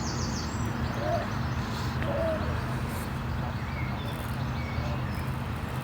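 Outdoor ambience with a steady low hum and a rushing haze, with small birds chirping briefly at the start and a couple of short soft bird calls about one and two seconds in.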